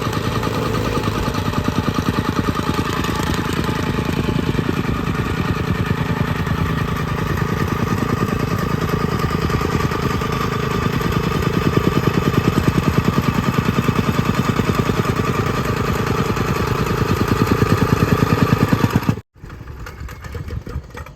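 Small engine-driven compactor running with a fast, even pulsing beat. It gets louder about twelve seconds in and again later, then cuts off suddenly, leaving a quieter, uneven sound.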